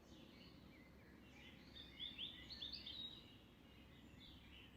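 Faint birdsong over quiet outdoor background noise: a quick run of short rising chirps about two seconds in, lasting roughly a second.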